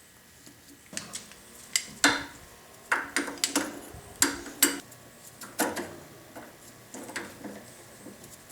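Hand tools clinking and knocking on metal at an irregular pace while the add-on pulley is worked loose from the planer's shaft. There is about a dozen sharp strikes, the first about a second in.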